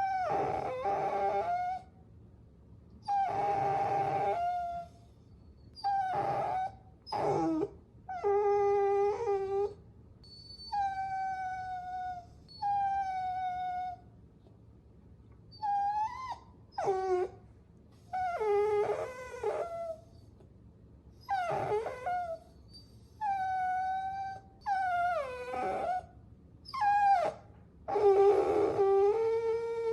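Puppies whining: a string of high, drawn-out whines, each about a second long with short pauses between, some held on one pitch and some sliding downward.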